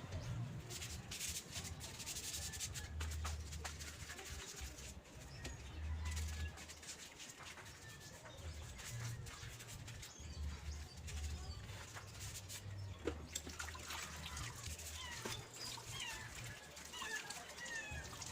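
Birds chirping, short quick calls that grow busier in the second half, over a low rumble.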